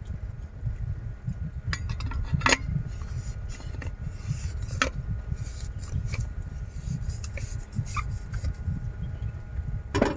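Heavy rain drumming on a campervan roof, heard from inside as a steady low rumble, with scattered clinks and knocks of small things being handled, a few of them ringing briefly.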